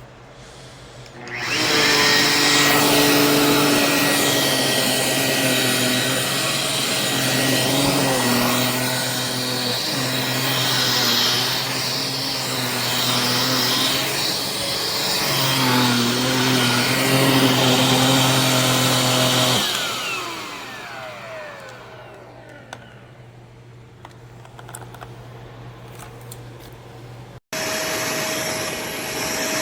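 Jimmy JV35 handheld mattress vacuum cleaner switching on about a second and a half in and running with a steady motor whine, its pitch dipping briefly twice. About twenty seconds in it switches off and the motor spins down. Near the end another steady machine hum starts abruptly.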